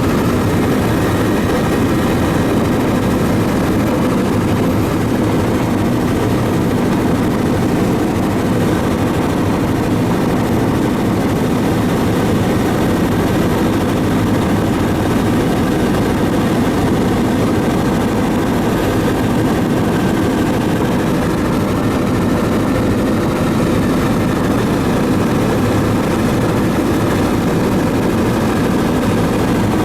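Engine noise of a sightseeing aircraft heard from on board in flight: a loud, steady drone that doesn't change.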